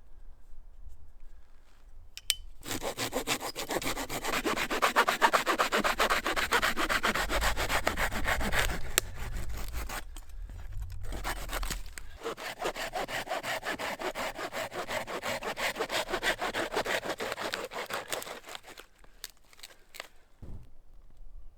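Hand saw cutting through wood in quick, even back-and-forth strokes, in two long bouts with a short pause about ten seconds in.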